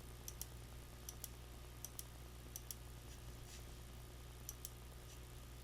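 Computer mouse clicking while zooming in on the screen: a series of sharp clicks, mostly in close pairs, about every second, over a faint steady hum.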